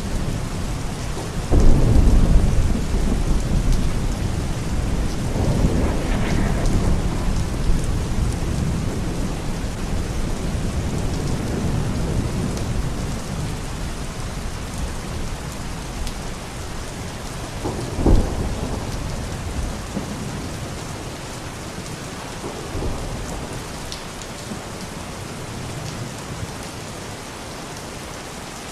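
Steady rain with thunder: a loud clap about a second and a half in that rumbles off slowly over several seconds, and a second, sharper crack about eighteen seconds in, with the rain running on underneath.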